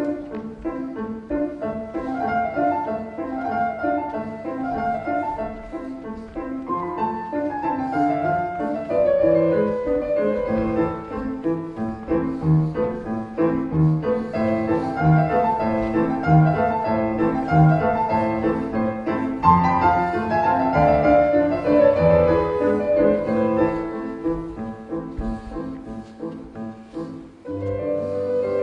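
Instrumental music led by piano, with a low bowed string such as a cello, playing a rhythmic passage; it thins out briefly near the end before the piano picks up again.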